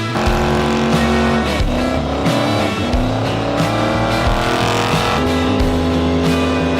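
Rock music with a steady beat, and over it a car engine revving, its pitch climbing for about three seconds from around two seconds in.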